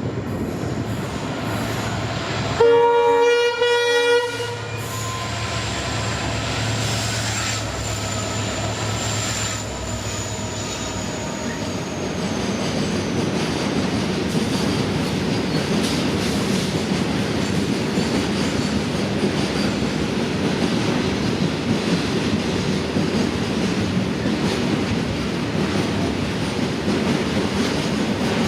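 A WDG4D diesel locomotive's multi-tone horn sounds one blast of just under two seconds, about three seconds in. A steady rumble and clatter of train wheels on rails follows, growing a little louder from about twelve seconds on.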